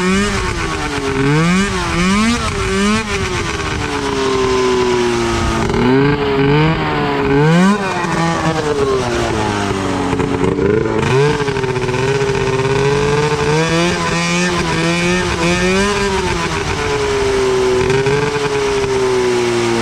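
Go-kart's 580cc two-stroke snowmobile engine (from a 1996 Arctic Cat) revving up and down over and over: quick blips in the first few seconds, then longer swells of rising and falling pitch.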